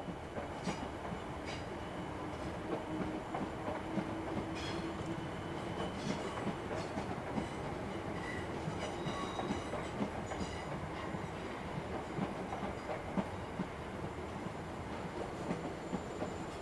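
Train moving slowly through the station: a steady rumble with many irregular wheel clicks over rail joints and pointwork.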